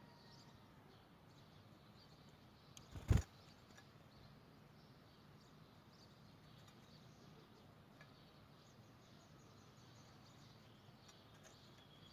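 Faint, scattered short chirps from a canary over a steady background hiss, not a full song. A single sharp thump about three seconds in is the loudest sound.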